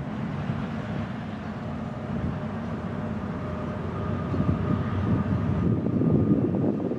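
BNSF freight train rumbling past, growing louder to a peak about six seconds in.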